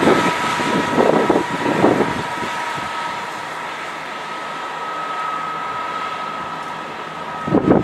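ScotRail Class 158 diesel multiple unit pulling away from the station towards a tunnel: a steady running noise with a thin, even whine over it. Gusts of wind noise buffet the microphone about a second in and again near the end.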